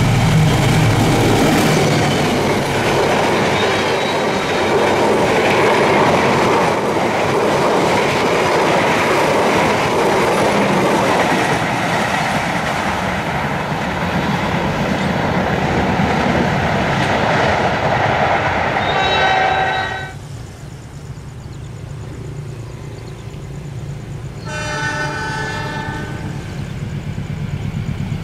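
Diesel-electric locomotive-hauled passenger trains. The first passes close at speed, its horn fading about a second in, then its wheels clatter and rumble over the rails with another short horn blast just before the sound drops away suddenly. A second train then sounds its horn and comes on, growing louder near the end.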